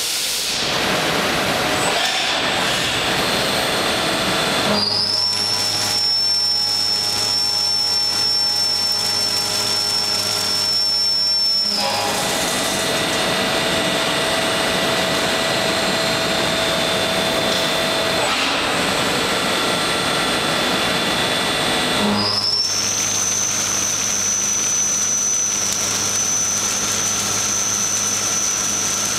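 Milling machine running and cutting key slots in a 4140 steel chuck, a steady rough machining noise. Twice it changes to a steady high whine over a low hum: from about five to twelve seconds in, and again for the last seven seconds.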